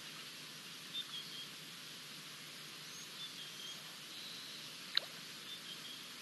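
Outdoor bush ambience: a steady faint hiss with scattered short, high bird chirps, and a single sharp click about five seconds in.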